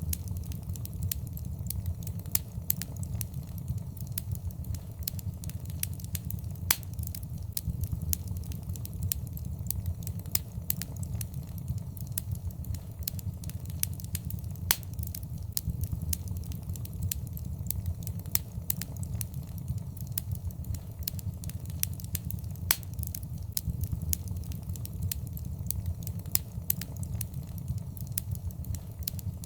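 Fireplace fire crackling: frequent sharp, irregular pops and snaps over a low, steady rumble.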